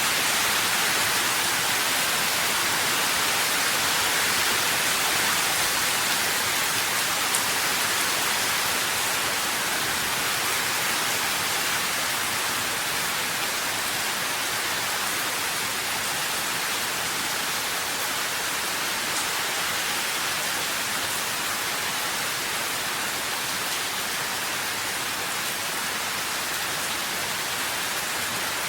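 Steady rain, a dense even hiss with no distinct drops, a faint tick or two standing out briefly.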